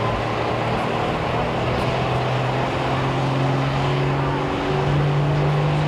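Limited super stock pulling tractor's engine running hard under load down the track, its pitch stepping up about a second in and again near the end.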